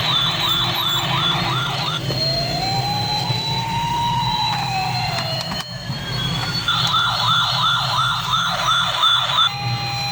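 Toy police vehicle's electronic siren: a fast warble of about three to four cycles a second, then one slow wail that rises and falls, then the fast warble again, over a low steady hum. Short steady beeping tones follow near the end.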